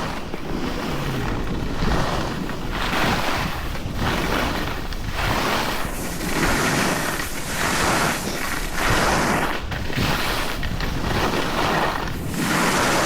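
Skis scraping over packed snow in linked turns down a ski run, a swishing scrape that swells about once a second, with wind on the microphone.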